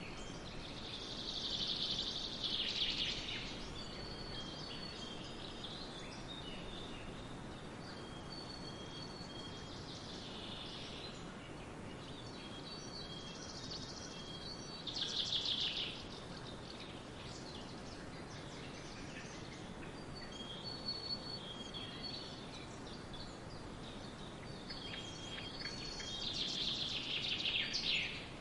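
Woodland birds singing over a steady background hiss, with thin high notes repeating throughout and louder song phrases near the start, about halfway through and near the end.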